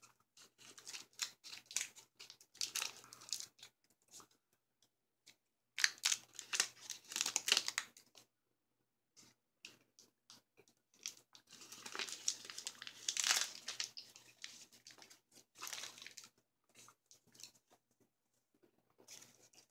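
A taffy's wrapper crinkling close up and the taffy being chewed, in irregular bursts with short pauses; the chewing is loud.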